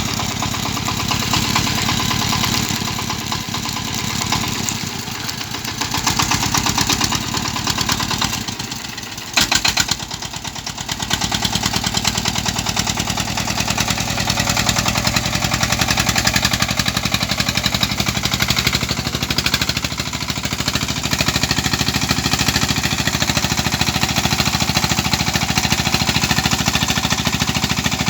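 Công nông farm truck's horizontal single-cylinder diesel engine running with a steady, rapid chugging beat as it hauls a load of rice. The beat briefly dips and changes about a third of the way in, then settles again.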